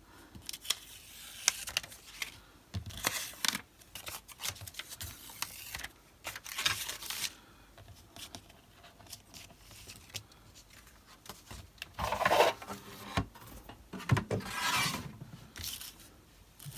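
Card stock and paper being handled: rubbing, rustling and sliding in several short bouts, with light taps and clicks in between.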